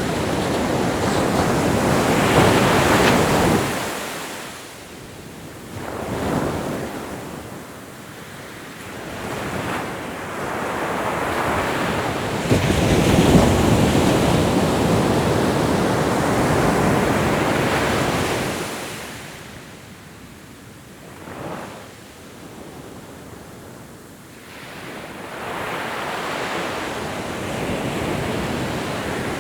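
Ocean waves breaking and washing up the shore, swelling and ebbing in slow surges every several seconds, with the hiss of surf between them.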